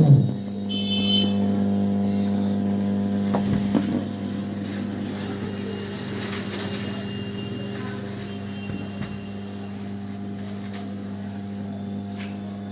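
Home theatre speaker giving a steady low mains hum and no audio, a little quieter from about four seconds in, with a few faint clicks. It is the fault symptom that the uploader traces to a failed 2030 amplifier IC.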